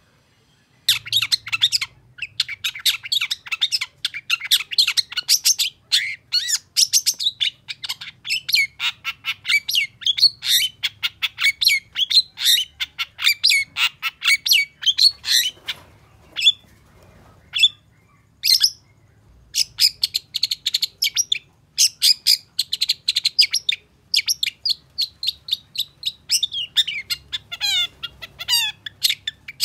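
Long-tailed shrike (cendet) singing a rapid, continuous chatter of quick high notes, starting about a second in. Around the middle the song thins to a few single notes, then the fast run picks up again.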